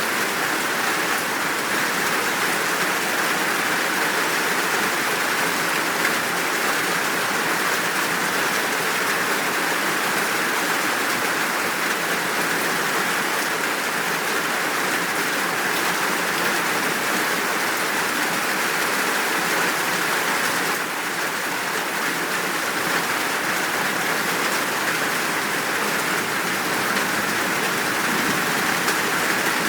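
Steady downpour of rain, an even, unbroken hiss of drops with a brief slight dip in level about two-thirds of the way through.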